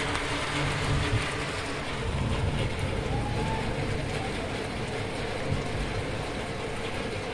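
Heavy thunderstorm downpour: rain pouring steadily as an even rushing noise, heard through window glass, with a low rumble underneath.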